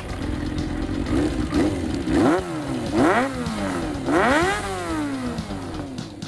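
Kawasaki ZRX400 four-cylinder engine revved in a series of throttle blips: two small ones, then three bigger ones, the highest and longest about four seconds in, each falling back toward idle.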